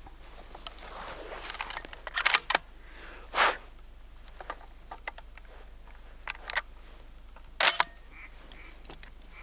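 Shotgun being loaded for duck hunting: a string of sharp metallic clicks and clacks as shells are handled and pushed into the gun. The loudest clacks come about two seconds in and again near the end.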